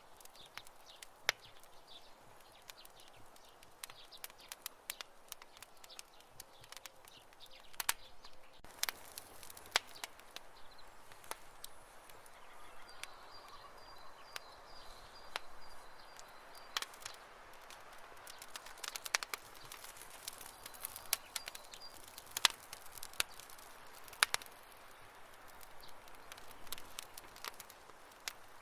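Wood campfire crackling: irregular sharp pops and snaps over a low, steady hiss of burning. A faint, thin, high tone sounds in the background for several seconds midway.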